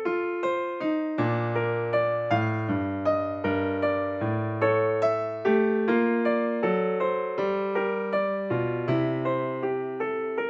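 Calm solo keyboard music: electric piano playing a steady run of notes, several a second, over held bass notes.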